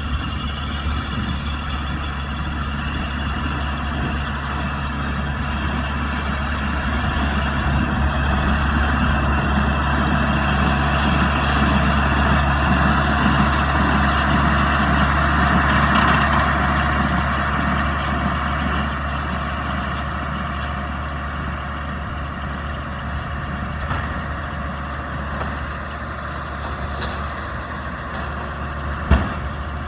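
Kubota M125X tractor's diesel engine running steadily while powering a Trotter 125 baler at work. The machinery noise swells and grows louder in the middle, then settles, and there is one sharp knock just before the end.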